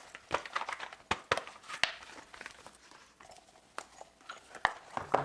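Silicone and plastic pop-it fidget toys being handled and pressed: a run of irregular clicks and pops with some plastic crinkling, stopping near the end.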